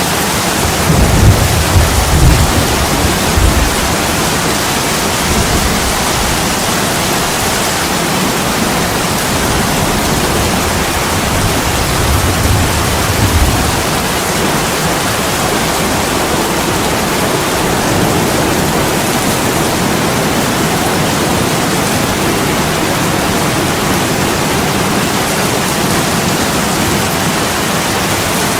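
Heavy rain falling steadily as an even hiss, with low rumbles of thunder about a second in and again around twelve seconds in.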